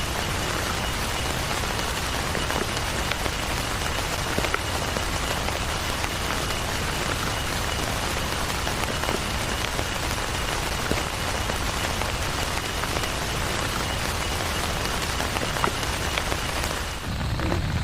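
Heavy rain falling steadily, a dense even hiss with scattered ticks of individual drops. Less than a second before the end it changes abruptly: the hiss thins out and a lower rumble takes over.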